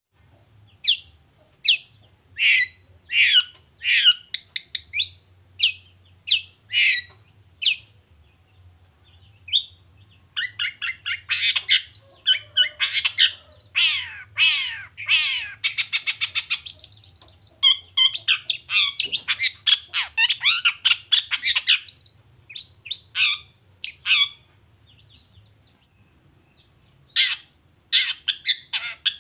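Long-tailed shrike (cendet) singing: a series of separate sharp calls, then a long, fast chattering run from about ten seconds in, and more short calls again near the end.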